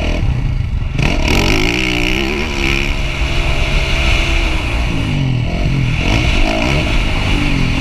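Motocross dirt bike engines revving, the pitch climbing and falling repeatedly as the throttle is worked.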